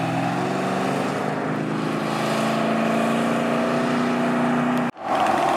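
A car engine accelerating, its pitch rising steadily for about five seconds, then cut off suddenly near the end.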